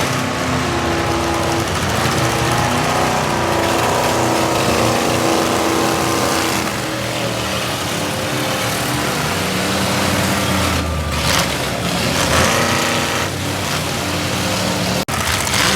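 Several demolition derby cars' engines running and revving together, their pitch rising and falling, with a few short, louder noisy bursts in the second half.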